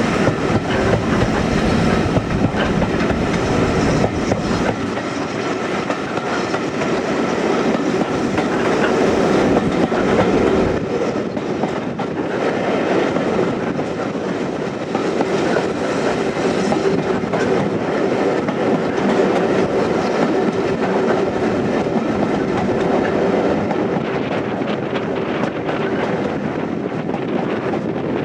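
Heritage railway carriage running along the line, heard from on board: a steady rumble of wheels on track with clickety-clack over the rail joints. The deepest part of the rumble falls away about eleven seconds in.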